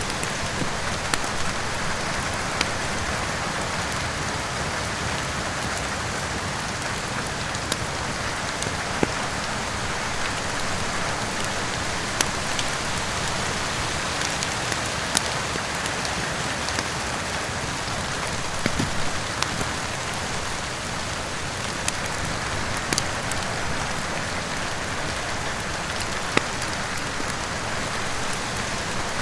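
Steady rain falling, with scattered sharp pops and crackles from a wood fire in a fireplace, about ten over the stretch.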